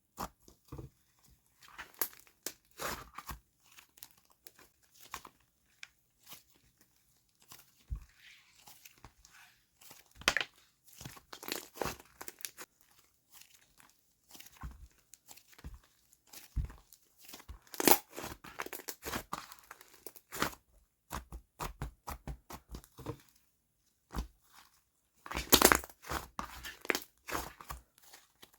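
Homemade slime being worked by hand, giving irregular sticky crackling clicks that come in dense clusters, loudest about twenty-five seconds in.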